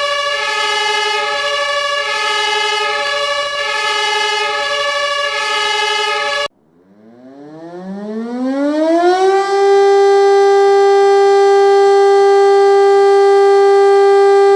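A two-tone siren alternating between a high and a low note cuts off about six and a half seconds in. A second siren then winds up, rising in pitch over about three seconds, and holds one steady tone.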